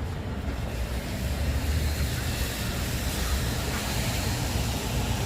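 Traffic on a rain-wet street: a steady low engine rumble, with tyre hiss building from about a second and a half in as a vehicle draws near.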